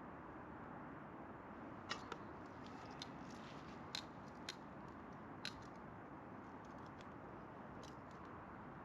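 Campfire crackling: about six sharp pops and snaps over a steady low hiss.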